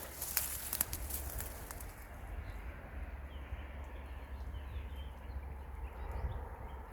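Small birds chirping faintly in short, scattered calls over a low steady rumble, with crackling steps or rustling in the first couple of seconds.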